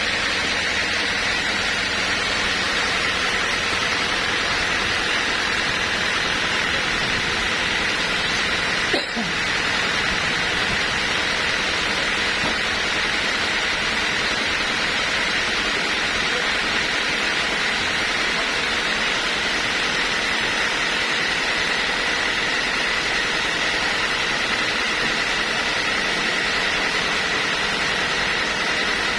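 Sawmill running: a steady hiss with a constant high whine. It breaks off briefly about nine seconds in.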